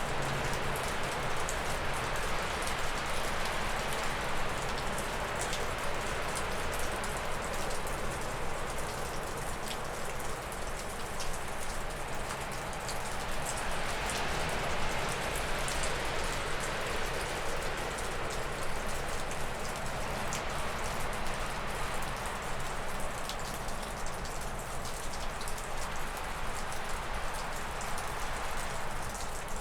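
Gusty wind blowing through spruce and birch trees, swelling and easing in waves every several seconds. Through it, water from melting snow drips off a roof in many small ticks.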